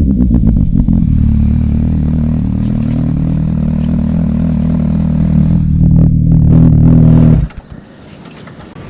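Sport motorcycle engine running loud and steady at high revs for about seven seconds, with a quick run of sharp pops in the first second, then cutting off abruptly.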